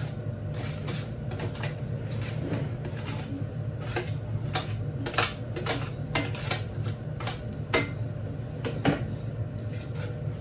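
A kitchen utensil tapping and knocking against cookware in irregular sharp clicks, about one or two a second, over a steady low hum.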